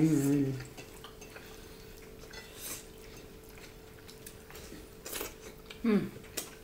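People eating with their fingers: faint chewing and light clicks of hands and food against ceramic plates. There is a hummed "mm" of enjoyment at the start and another brief murmur near the end.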